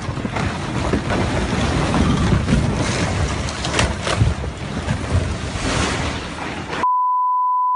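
Landslide debris rushing and rumbling, with wind buffeting the microphone. About a second before the end it cuts off abruptly into a steady high beep, a censor bleep.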